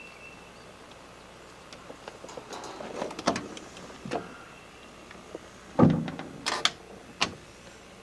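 A series of clicks and knocks from things being handled, with the loudest a heavy thud about six seconds in, followed by two sharper knocks.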